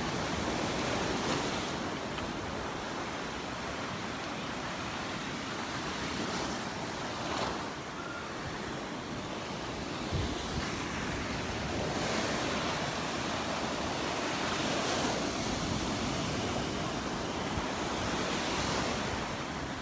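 Gulf of Mexico surf washing onto the beach, swelling and easing every few seconds, with wind buffeting the microphone.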